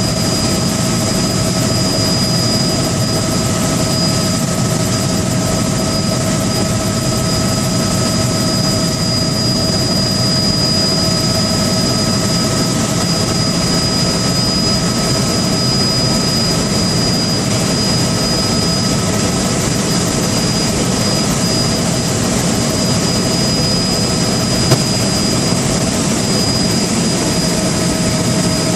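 Steady aircraft engine noise with constant high-pitched whine tones, unchanging throughout, and a single brief click near the end.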